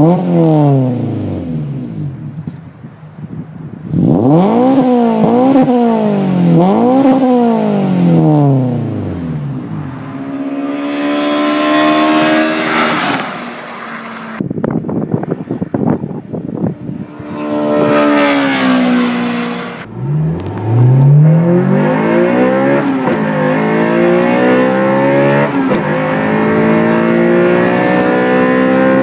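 Honda Integra Type R four-cylinder engine revving hard through its exhaust: one rev falls away, then three sharp free-rev blips, then a long climbing rev that cuts off abruptly. Later a rev falls in pitch, and the car accelerates hard, with the pitch dropping twice at upshifts before climbing again.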